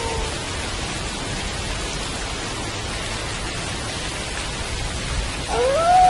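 Steady rain falling. A wolf's howl tails off and falls slightly just at the start, and near the end another howl begins, rising in pitch and then holding.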